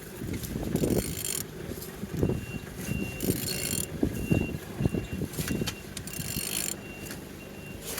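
Mercedes OM651 four-cylinder diesel engine being turned over by hand, with spells of metallic clatter and low knocks as it turns; the engine turns freely. From about two seconds in, a vehicle's reversing alarm beeps steadily in the background.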